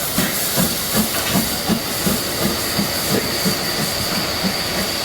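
Harz narrow-gauge steam train running, heard from on board: an even beat about three times a second over a steady hiss of steam and running noise.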